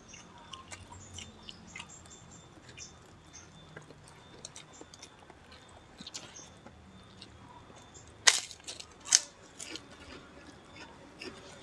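People chewing and eating at close range: quiet chewing with many small clicks, and two sharper cracks about eight and nine seconds in.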